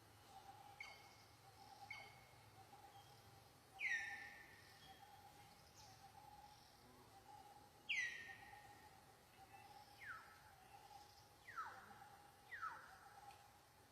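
Faint outdoor ambience: a steady high drone like insects, with about five short calls that each slide sharply down in pitch and settle, the loudest about four and eight seconds in.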